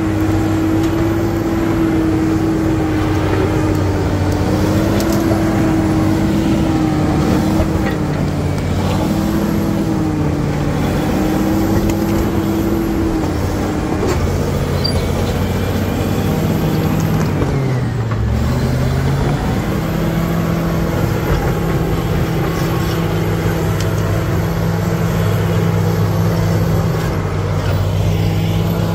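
Caterpillar D7G bulldozer's diesel engine working under load. Its pitch wavers, then sags sharply about two-thirds of the way through as the engine lugs down, and picks up again to run steadily.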